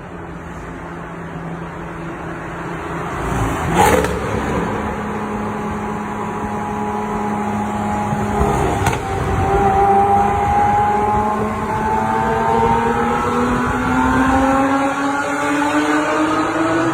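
Lamborghini Aventador SVJ's V12 engine running in a tunnel, its note holding steady at first and then climbing slowly in pitch as it accelerates through the second half. There is a sharp crack about four seconds in and another about nine seconds in.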